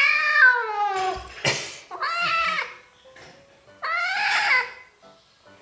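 Kitten meowing loudly in protest while being bathed, three long drawn-out meows, the first falling in pitch.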